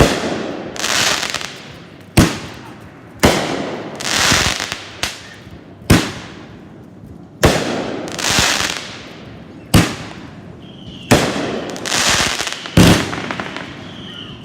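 Fireworks firing in a steady barrage: about eight sharp bangs, one every one to two and a half seconds, most followed about a second later by a crackling hiss that swells and fades.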